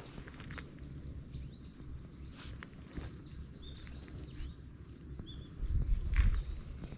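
A small bird calling outdoors in a quick series of high chirps. A brief low rumble on the microphone comes about six seconds in.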